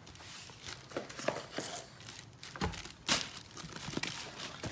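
Plastic and cardboard fireworks packaging crinkling and rustling as items are handled, with scattered clicks and a low thump about two and a half seconds in.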